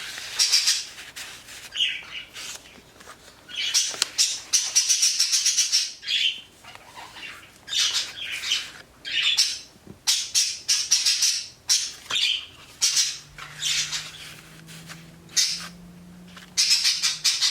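Paper rustling and crinkling as the stiff pages and trims of a handmade accordion junk journal are turned and handled, in repeated crisp bursts.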